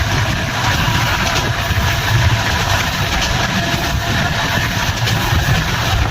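Diesel-hauled intercity passenger train running, a steady loud rumble of engine and wheels on the track with a pulsing low throb.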